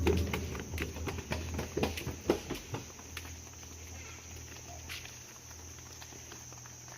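Footsteps crunching through dry fallen leaves, dense for the first few seconds and then thinning out to a few scattered crunches.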